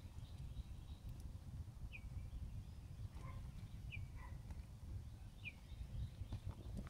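A small bird chirping faintly in the background, three short upward-hooked notes about a second and a half to two seconds apart, over a low steady rumble.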